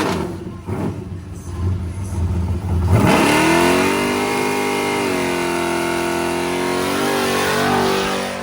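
A car engine at a low rumble, then revving hard under acceleration about three seconds in: its pitch climbs quickly and holds high for several seconds before the sound fades away near the end.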